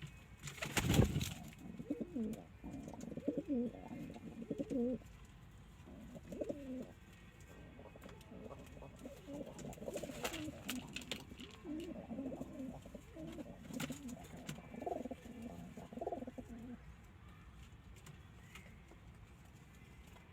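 Domestic pigeons cooing, repeated low calls in phrases over most of the stretch. There is a sharp knock about a second in, and a few fainter clicks later.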